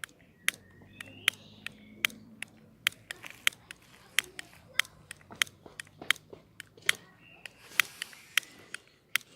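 A lighter being clicked over and over, about two to three sharp clicks a second, in repeated attempts to get kindling alight.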